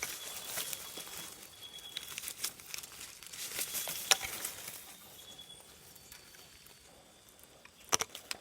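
Rustling and crinkling of someone moving through vegetation, with scattered light clicks and two sharper clicks near the end. A faint, thin, high steady tone comes and goes in the background.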